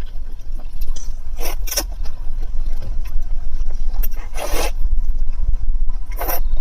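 Close-miked eating sounds: about four short noisy bursts of chewing and slurping over a steady low rumble.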